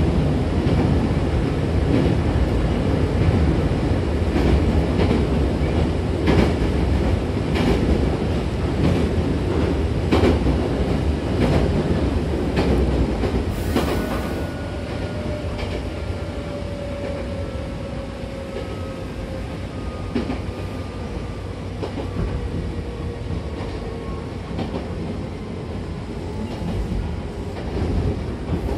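Hankyu 6000-series electric train running, heard from inside the car: a steady rumble with wheels clicking over rail joints. About halfway through, a brief high hiss, then two tones that slowly fall in pitch as the train slows and the clicking thins out.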